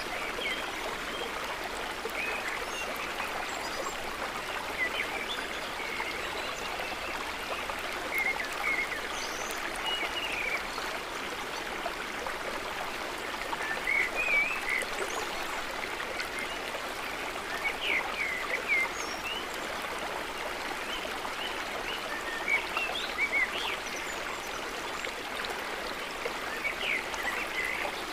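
Water trickling and gurgling in a steady stream, with small bright plinks and gurgles scattered through it.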